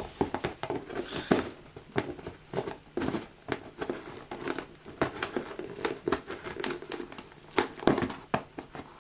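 Scissors working at a taped parcel, with irregular crinkling, rustling and tearing of the packaging as it is worked open.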